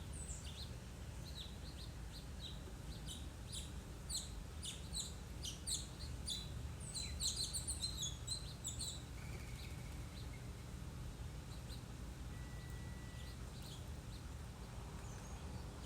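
Small backyard songbirds chirping: many short, high chirps, busiest in the first half and sparser later, over a steady low background hum.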